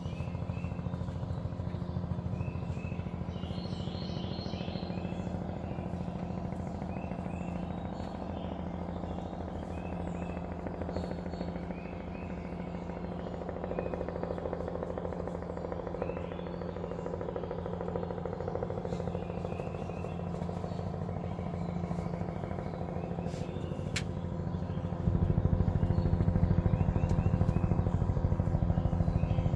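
Helicopter hovering overhead: a steady low rotor thrum with rapid blade chop, which gets markedly louder near the end.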